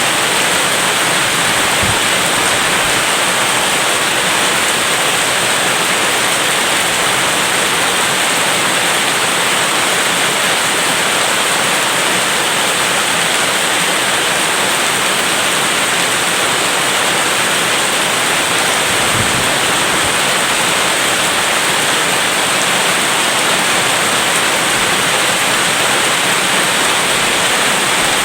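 Steady heavy rain, a dense unbroken hiss at an even level.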